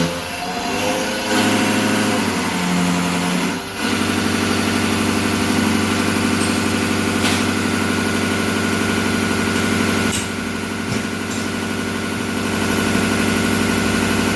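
Machinery running during calibration of an eight-cylinder diesel injection pump. Its pitch shifts during the first few seconds, then it settles at a steady speed after about four seconds, with a brief dip around ten seconds in.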